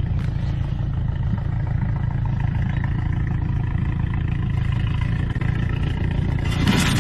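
A motor vehicle's engine running steadily with road noise, and a louder rushing swell just before the end.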